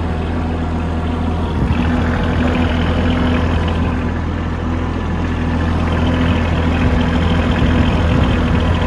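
A farm vehicle's engine running steadily as it drives with a heavy load of junk wood and metal, a low, even hum.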